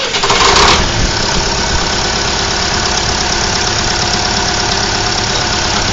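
A warm car engine just started, loudest for the first second, then settling to a steady idle. The engine has a knock whose cause has not been found.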